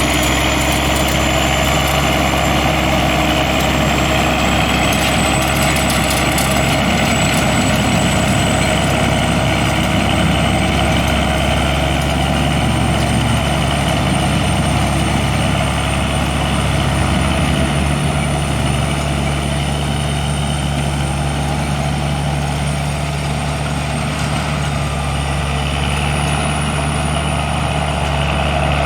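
2010 Prinoth Leitwolf W snow groomer's MAN diesel engine running steadily as the machine moves off, with a thin high whine that slowly climbs in pitch.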